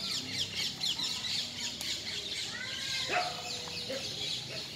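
Small birds chirping in the background, a dense run of quick, high chirps, with one louder short call about three seconds in.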